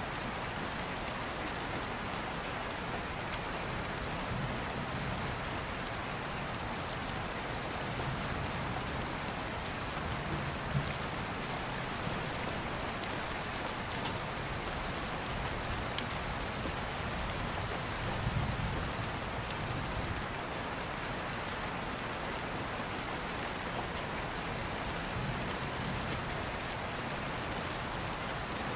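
Steady rain falling, with a few sharp crackles from an open wood fire.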